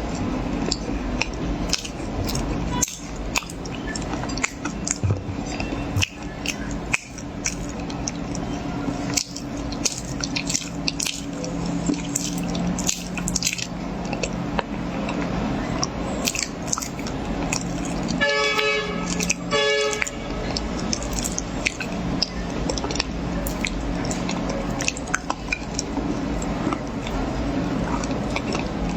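Close-miked eating of corn for ASMR: many small crunches and clicks of biting and chewing over a steady low hum. A little past two-thirds of the way in, a horn-like tone sounds twice, briefly.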